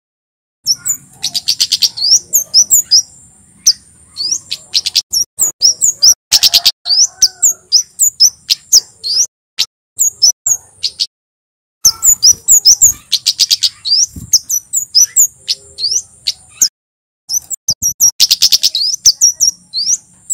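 Male kemade (Javanese flowerpecker) singing loud, rapid runs of sharp, high chirps over a thin, high trill. The runs come in bursts, with two brief pauses about midway and near the end.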